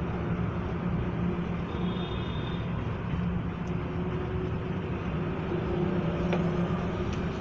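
Steady vehicle and road-traffic noise with a low engine hum, and a faint click about six seconds in.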